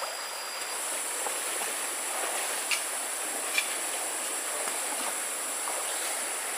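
Steady rush of running stream water with a high, even hiss above it. Two short, sharp clicks sound about a second apart near the middle.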